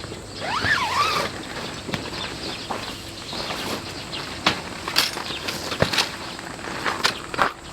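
Wood campfire burning, with irregular sharp crackles and pops. Near the start comes a short squeaky whistle that rises and falls.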